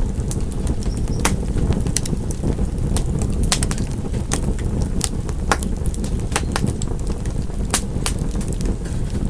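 Wood fire burning: a steady low rumble of flame with frequent, irregular sharp crackles and pops from the burning wood.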